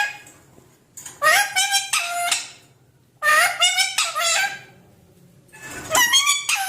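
Pet parrot calling in three loud bursts of about a second each, with short pauses between them.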